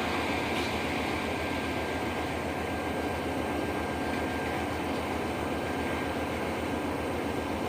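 Steady noise of a train running past, with a faint steady high tone over the rumble.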